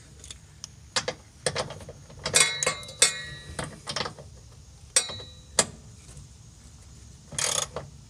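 Metal tools clicking and clinking against the sway bar bracket bolts, a series of separate sharp knocks with some metallic ringing, and a short rattling burst near the end.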